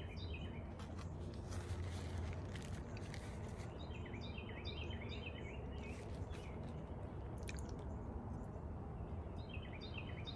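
A person quietly chewing a soft caramel-filled chocolate, with faint mouth clicks. A songbird sings short runs of quick descending chirps at the start, around four seconds in and again near the end, over a steady low background noise.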